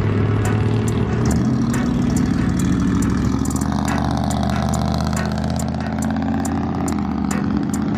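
A car or truck engine running loud and steady, its pitch stepping up about a second in and again near the end as the vehicle is revved and driven off.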